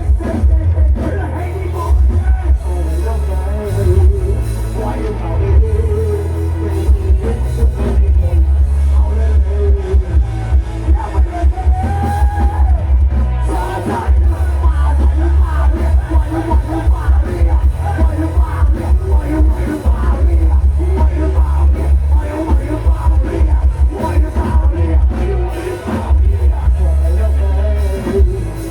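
Loud music from a Thai rot hae sound-system truck: a heavy, pounding bass beat under melody and a singing voice.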